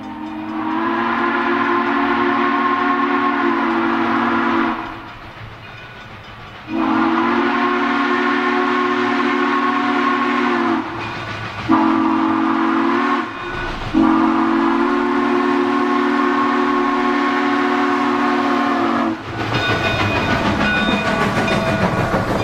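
A model train's multi-tone horn sounding the grade-crossing signal of long, long, short, long, each blast a steady chord. Near the end the horn stops and the train's running noise rumbles on.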